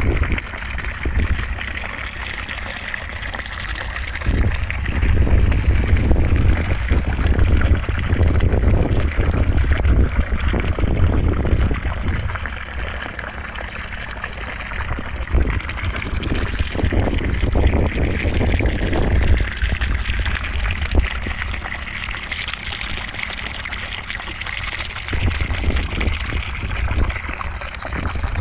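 Continuous rushing white noise for sleep, a water-like hiss with a low rumble that swells and eases every few seconds.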